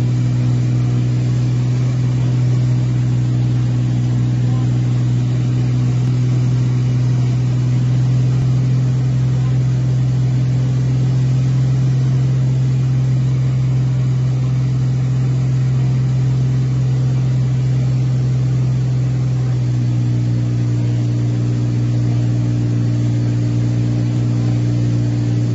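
A steady engine drone: one low hum holding level, its tone shifting slightly about twenty seconds in.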